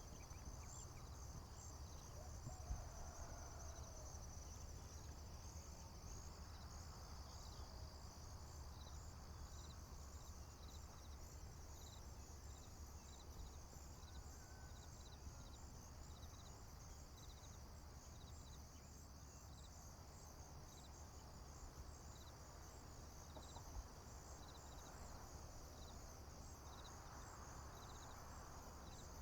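Field crickets and other insects chirping in a steady high, pulsing chorus, with one more insect giving a short chirp over and over at an even pace. Beneath it runs a low rumble of distant traffic or wind, and a few faint bird calls come through.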